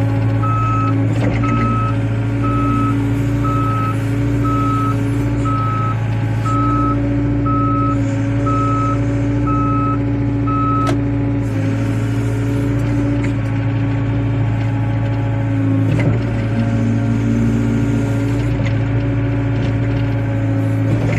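Wheeled excavator's diesel engine running steadily while its travel alarm beeps at one pitch, a little over once a second; the beeping stops about halfway through and the engine runs on, with a few brief knocks.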